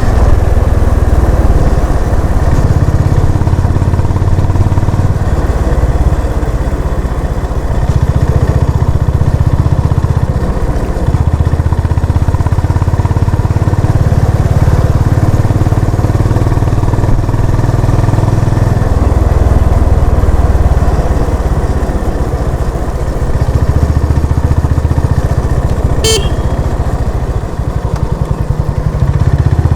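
Honda CB350 RS's air-cooled single-cylinder engine running under way on the road, its low note rising and falling in steps every few seconds. A short horn beep sounds near the end.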